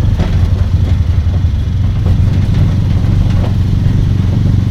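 Steady low rumble of a moving road vehicle's engine and road noise.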